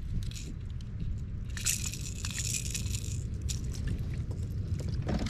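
A small largemouth bass splashing and thrashing at the surface as it is landed, in two bursts of splashing with scattered clicks. A steady low rumble of wind on the microphone runs underneath.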